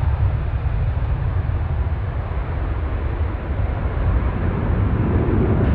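Jet airliner engine noise: a steady, deep rumble with a hiss above it, dipping slightly in the middle and building again near the end.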